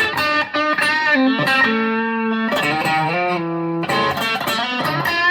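Electric guitar, a Squier Affinity Stratocaster with single-coil pickups, played through an amp as a single-note lead line with string bends and vibrato, and a few longer held notes in the middle.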